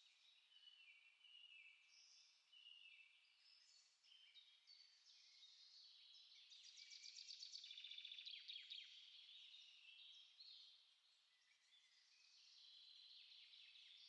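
Small songbirds singing faintly, several overlapping chirps and warbling phrases, with a fast trill of rapidly repeated notes in the middle.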